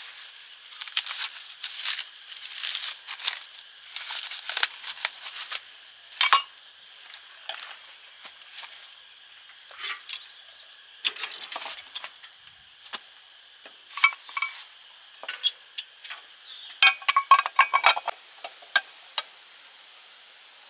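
Metal tools and parts clinking and tapping as they are handled, in irregular short strikes with a quick flurry near the end.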